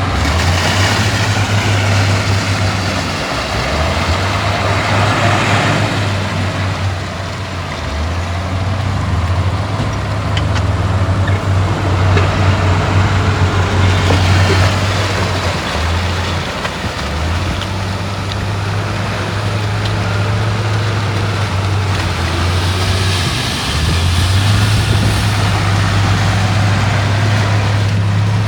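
Heavy diesel earthmoving machinery running, with a strong low engine drone that dips and comes back several times, over a broad rushing, clattering noise.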